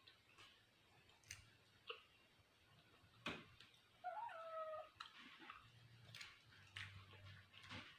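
A cat meows once, about four seconds in: a short call that dips slightly in pitch. Faint scattered clicks can be heard around it.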